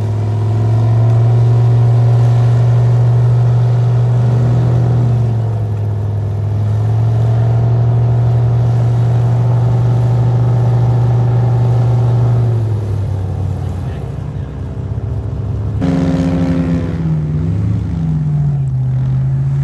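Airboat engine and propeller running hard at a steady pitch, easing off briefly twice. About three-quarters of the way through the sound changes suddenly, and the engine pitch then swings up and down as it revs.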